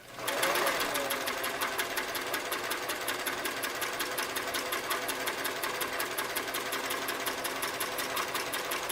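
Singer Model 337 sewing machine, freshly restored and adjusted, starting up and sewing a straight stitch at its longest stitch length, 6 stitches per inch. The motor comes up to speed just after the start, then runs steadily with a rapid, even clatter of needle strokes.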